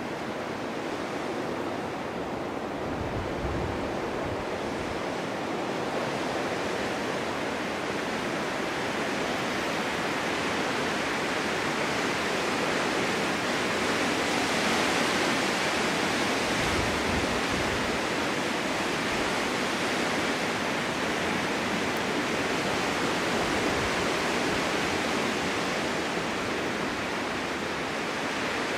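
Snowstorm wind blowing in a steady, loud rush that swells toward the middle and eases again, with low rumbling gusts a few seconds in and again just past halfway.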